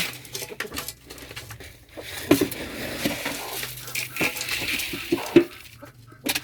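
Domestic birds feeding: light pattering and clattering of beaks and feet in the feed and its dish, with a few short calls about two seconds in and again near the end.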